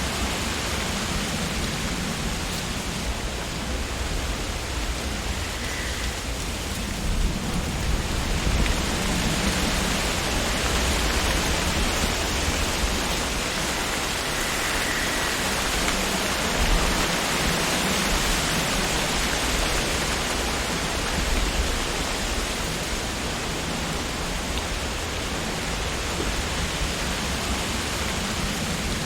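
Wind rustling through tree leaves as a steady hiss, swelling in gusts about a third of the way in and again past the middle.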